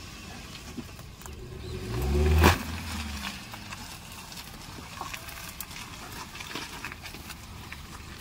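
Small car's engine revving up under load, its pitch rising for about a second to a peak that ends abruptly with a sharp knock, as the car is pulled out of the field. Faint scattered crackling follows.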